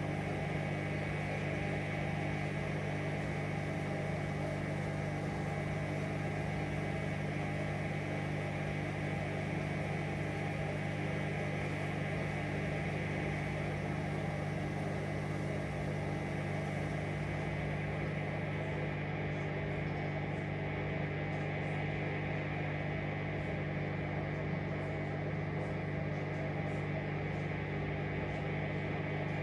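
Hoover Vision Dynamic washing machine spinning its drum on a spin-only cycle: a steady motor hum at constant speed, running smoothly without banging or thumping.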